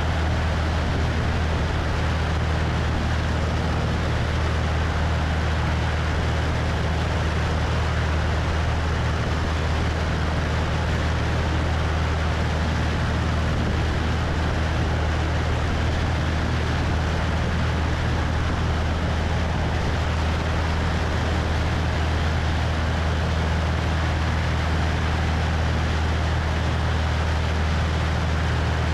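Cessna 172's piston engine and propeller running steadily in flight, a constant low drone, with steady wind noise rushing over a wing-mounted microphone.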